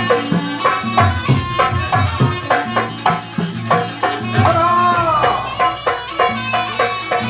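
Javanese gamelan music with rapid hand-drum strokes over steady, ringing low metallic tones, and a gliding melodic line about halfway through.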